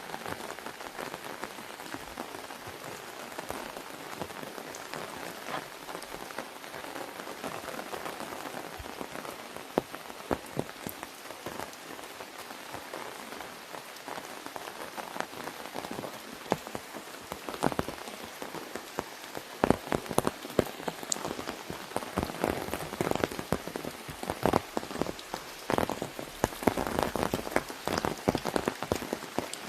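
Rain falling on an umbrella: a steady hiss with sharp individual drop hits, which come thicker and louder from about halfway through.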